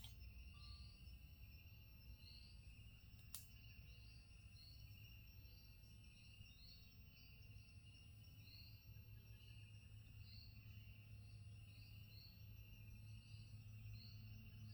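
Faint tropical forest ambience: a steady, high insect drone with short, high chirps repeating about once a second, and a single sharp click about three seconds in.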